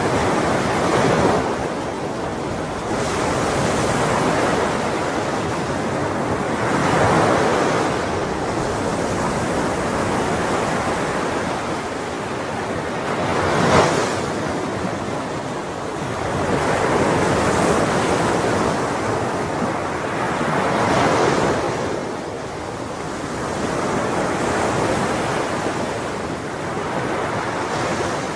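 Ocean surf: waves breaking and washing up, swelling and fading every three or four seconds, with one sharper, louder crash about halfway through.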